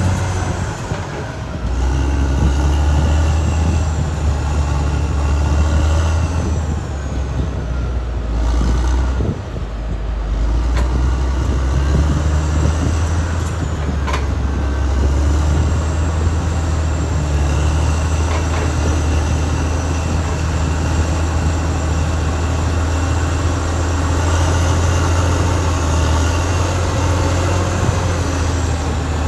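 Caterpillar D6R XL crawler bulldozer working, its diesel engine running under load with a steady low drone. A higher whine from the running gear comes and goes over it. The engine sound dips briefly about nine seconds in, then picks up again.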